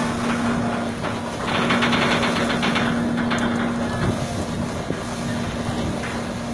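A boat's motor running steadily with a constant hum, over rushing noise. A louder rasping burst comes about a second and a half in and lasts about a second and a half.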